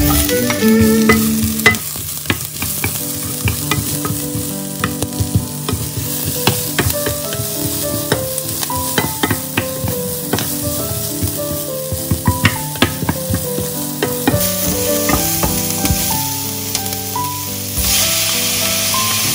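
Diced onion, garlic and ginger sizzling in hot oil in a nonstick frying pan, stirred with a wooden spatula that gives frequent small knocks and scrapes against the pan. Near the end chopped tomato drops in and the sizzle grows louder and hissier.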